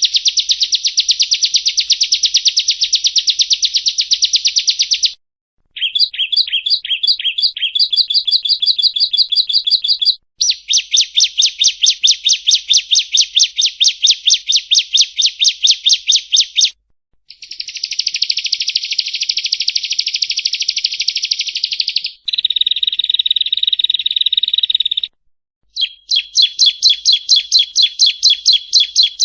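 Yellow-bellied prinia (prenjak rowo) song: fast, high, chattering trills of rapidly repeated notes, delivered in several bouts broken by short pauses, each bout a little different in rhythm and pitch.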